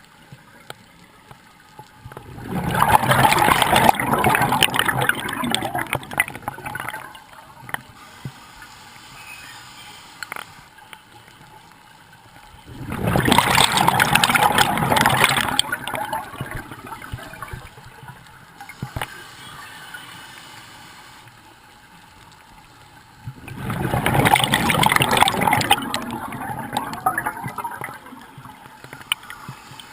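Scuba diver's exhaled bubbles from the regulator, heard underwater: three bubbling exhalations, each lasting a few seconds, about ten seconds apart.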